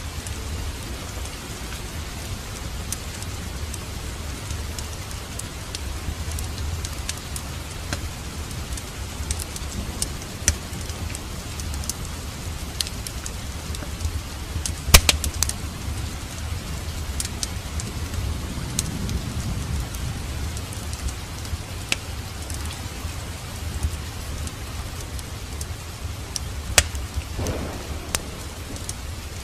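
Fireplace fire crackling, with scattered sharp pops, the loudest about halfway through, over a steady hiss of rain.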